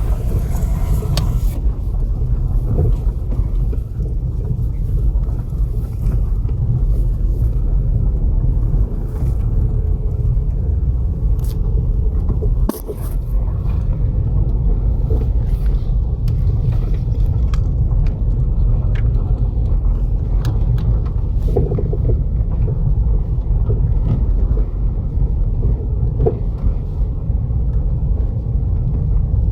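A 2008 Opel Astra H driving over an uneven road with a steady low rumble, with irregular knocks from the left front suspension, a rattle like "potatoes in a bucket". The knocking comes from play in the front shock absorber rod.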